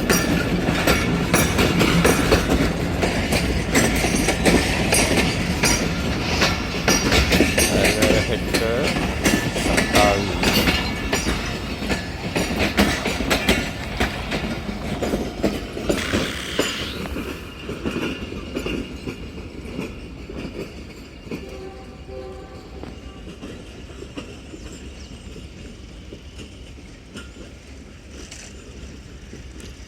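A passenger train running past on a single-line track, its wheels clattering rapidly over the rail joints. Over the second half the clatter fades away as the train recedes.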